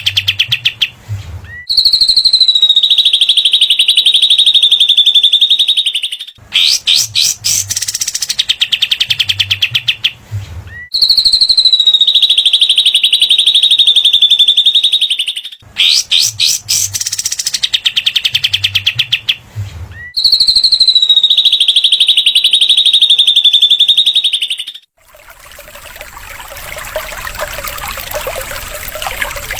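Recorded songs of small songbirds used as masteran, the cililin and katem: a rapid chattering trill followed by a long, buzzy, high-pitched note, repeated three times. About 25 seconds in it gives way to a softer, steady trickling sound like running water.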